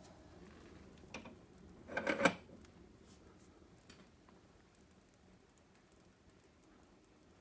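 Wood fire crackling quietly behind a closed fireplace door: scattered faint pops, with a louder cluster of crackles about two seconds in.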